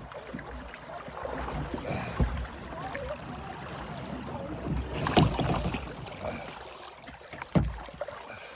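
Kayak moving down a creek: running water and splashing around the hull, with three knocks about two and a half seconds apart.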